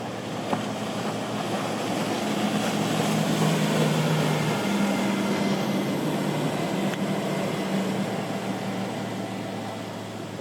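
Motorboat engines running as a boat passes, the steady hum growing louder over the first few seconds and fading toward the end, over a wash of waves and wind.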